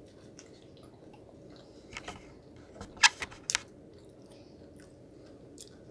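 Close-miked chewing: a person eating a bun dipped in soup, with a few short wet mouth smacks about two and three seconds in.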